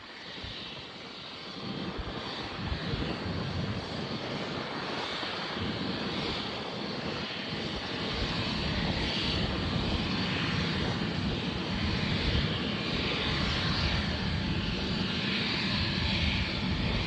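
Boeing 777's twin GE90 turbofans at take-off thrust, a broad jet roar that builds over the first few seconds and then holds steady as the airliner rolls for departure.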